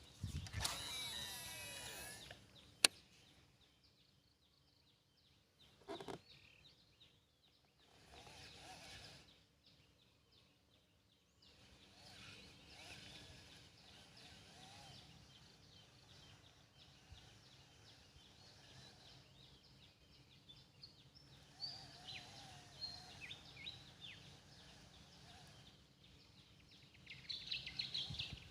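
Quiet outdoor ambience with birds chirping, the short high calls coming more often towards the end. A rustling noise fills the first two seconds, and a single sharp click comes about three seconds in.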